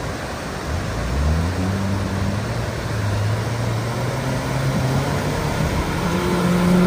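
Maruti Gypsy's engine revving as it wades through a fast, rocky river, over the steady rush of the water. The engine note climbs about a second in, then holds and gets a little louder near the end.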